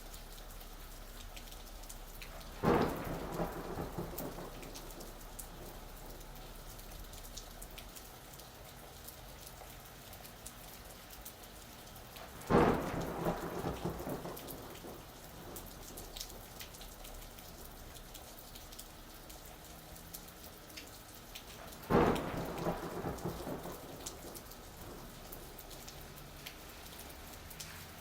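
Steady rain falling, with three sudden thunderclaps about ten seconds apart, each crackling and rumbling away over a second or two.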